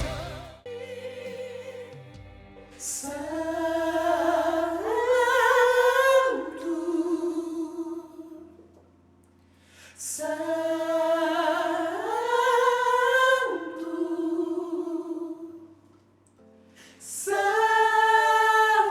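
Female soprano voices singing the soprano line of a gospel song in long held notes that step up and down. There are four phrases with short pauses between them, over a faint, steady low accompaniment.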